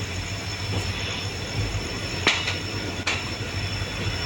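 Express train running along the track at speed: a steady rumble of the coach wheels on the rails, with two sharp clacks from rail joints or points about two seconds in and a second later.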